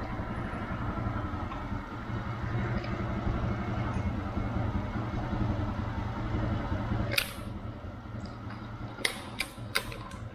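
Small motorcycle engine idling steadily, with one sharp click about seven seconds in and three more near the end.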